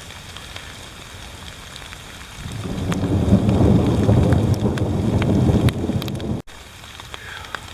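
Heavy rain pouring steadily, with scattered drops ticking close by. About two and a half seconds in, a loud low roll of thunder rumbles for some four seconds, then cuts off suddenly.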